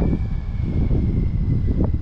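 Wind rumbling on the microphone of a bike-mounted action camera while riding: a dense, steady low rumble with no speech, and a faint thin high whistle fading out in the first second.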